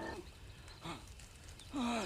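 The tail of a sustained musical chord dies away, then two faint short cries that fall in pitch, the second ending on a held low note near the end.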